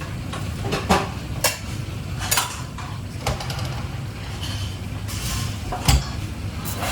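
Dishes, pans and cutlery clattering, with a handful of sharp clinks and knocks over a steady low hum.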